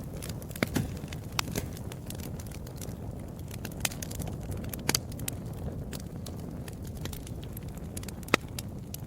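Fire crackling, with irregular sharp pops and snaps over a steady low rumble; the loudest pop comes near the end.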